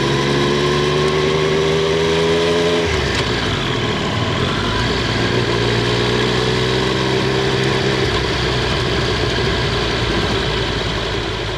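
Triumph Street Triple 765 R's inline three-cylinder engine and exhaust under way, picked up from under the rear seat. The engine note climbs slowly, breaks off sharply about three seconds in as the throttle is cut, then climbs slowly again.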